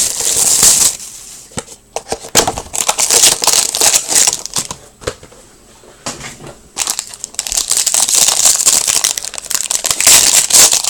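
Hockey card pack wrappers being torn open and crinkled by hand, with a quieter stretch in the middle.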